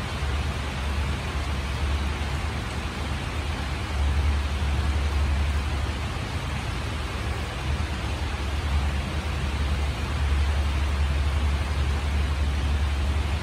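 Steady rain falling, an even hiss, over a low rumble that swells twice, a few seconds in and again near the end.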